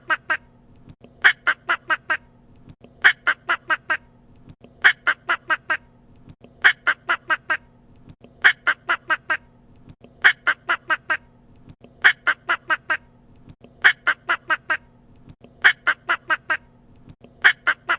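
A duck quacking in quick runs of four or five quacks, the runs repeating evenly about every two seconds.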